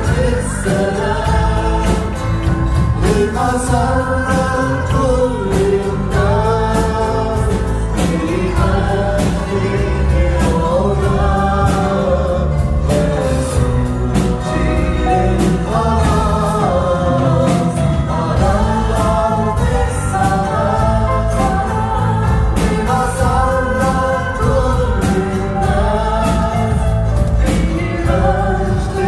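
A choir singing a Christian song, with several voices carrying a melody over steady low accompaniment.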